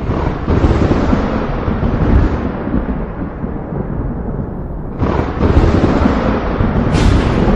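Thunder: a sharp crack about half a second in that rolls and rumbles off over several seconds, a second crack about five seconds in, and a third near the end.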